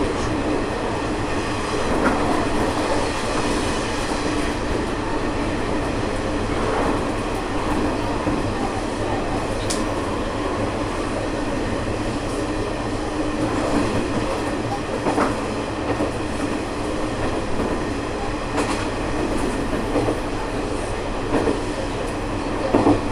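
Diesel railcar of a local train running along the track, heard from the cab: a steady engine and running noise with an occasional knock of the wheels over rail joints.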